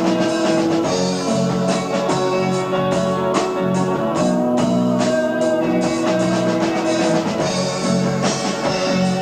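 A live progressive rock band playing an instrumental passage: drum kit, electric guitar and bass under held keyboard notes, on an amateur tape recording with dull, cut-off treble.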